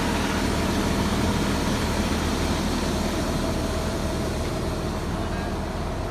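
Volvo EC480 excavator's diesel engine running steadily with a low hum.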